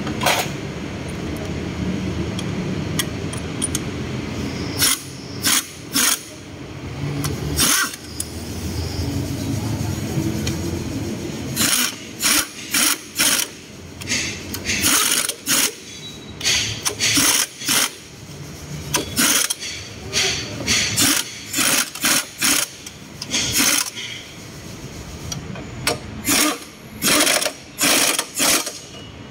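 Impact wrench firing in many short bursts, tightening the engine mount bolts. A steady low hum sits underneath for the first few seconds.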